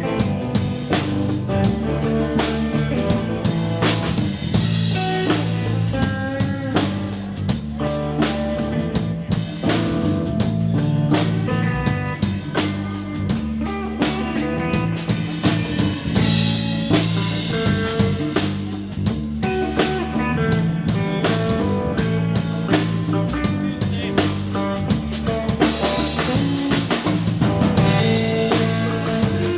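Live blues band playing an instrumental passage with electric guitar, bass and drum kit keeping a steady beat.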